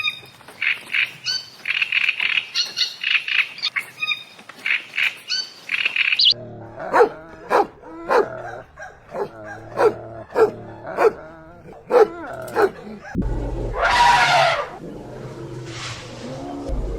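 A sequence of animal calls: rapid high-pitched chirping for about six seconds, then a run of short repeated calls about two a second, then a louder drawn-out call about two thirds of the way through.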